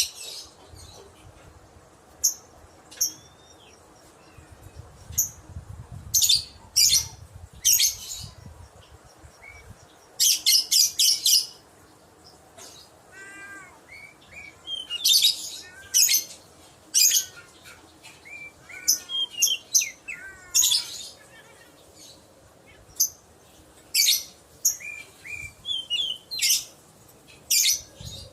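Lovebird giving shrill, high-pitched chirps in short bursts and rapid clusters, with softer down-slurred calls in the middle stretch.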